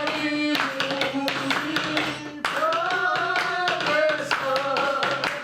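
Hands clapping in a steady rhythm while voices sing along.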